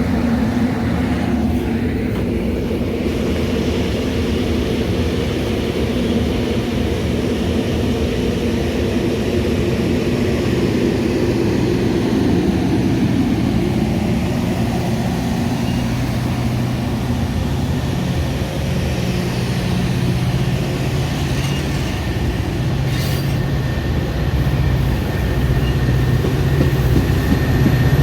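Metra commuter train running, a steady low mechanical hum with rail noise, rising a little near the end and with a short sharp sound about three-quarters of the way through.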